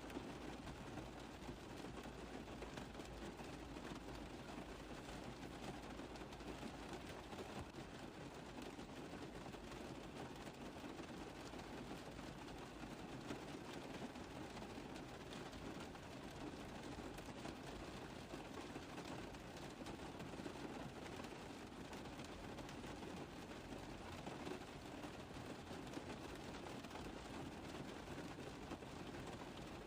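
Steady rain tapping on a car roof, a dense, even patter of small drop hits.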